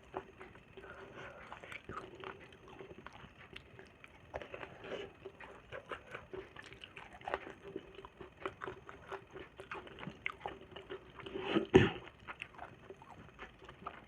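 Close-up eating sounds: wet chewing and smacking of saucy food, made up of many short clicks. About three-quarters of the way through there is a single louder knock.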